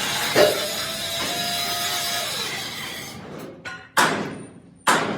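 Steel being worked in a rim plate workshop: a steady grinding or cutting noise with one sharp strike, fading out, then heavy hammer blows on steel plate, about one a second, each ringing away.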